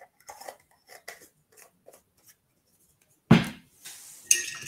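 Painting supplies handled on a tabletop: a run of faint light taps and ticks, then one solid knock about three seconds in, and a short ringing clink near the end, like a hard object such as a jar or paint bottle set against the work surface.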